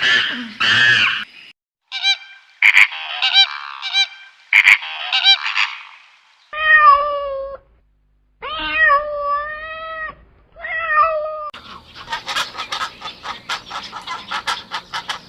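Calls of several different animals, one clip after another: short high calls, then three long wavering calls, then a fast pulsing call near the end.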